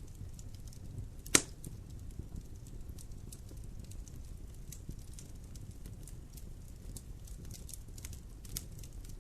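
Wood fire burning in a fireplace: a steady low rumble of flames with scattered small crackles, and one loud sharp pop about a second and a half in.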